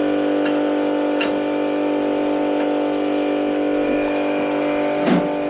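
Small electric pump motor running with a steady hum as it pumps water out of a gas water heater through a hose. A few light metallic clicks come over it, the clearest near the end.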